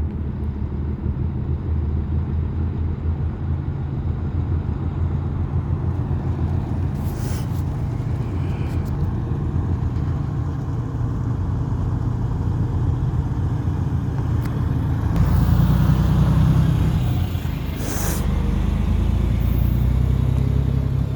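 Diesel locomotives of a departing freight train running, a steady low rumble that swells about fifteen seconds in.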